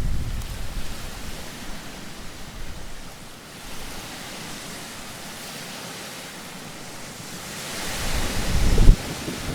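Sea waves on a beach, a steady wash that swells near the end as a wave comes in and breaks, with a sharp thump as it peaks. Wind buffets the microphone at the start.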